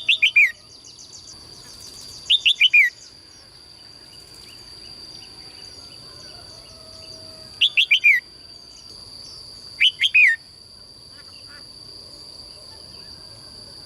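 A songbird repeating a short, loud phrase of three or four quick notes falling in pitch, four times at intervals of a few seconds. A steady high-pitched whine runs underneath, with faint small chirps between the phrases.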